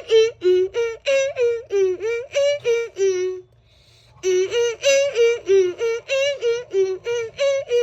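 A child singing a wordless tune in short, pitched syllables, about three a second, in two phrases with a pause of about a second in the middle.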